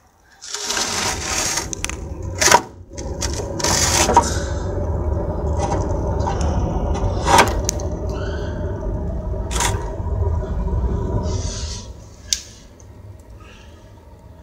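Wood fire in a fireplace drawing hard with its air drawer open: a steady low roar with sharp cracks of burning wood every second or two. The roar drops away about twelve seconds in, leaving fainter crackling.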